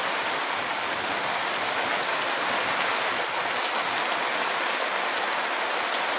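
Heavy rain pouring down in a steady hiss, with sharp splashes of single drops landing close by.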